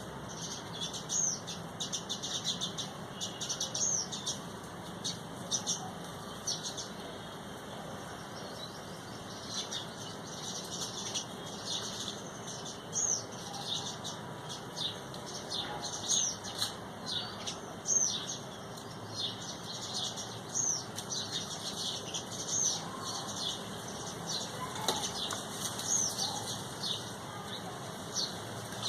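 Small birds chirping, many short high chirps coming several a second, some sliding up or down in pitch.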